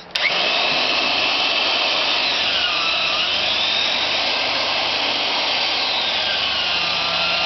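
An electric motor on a hydraulic butt fusion welding machine switching on just after the start and running steadily and loudly, with a faint whine that slides up and down in pitch.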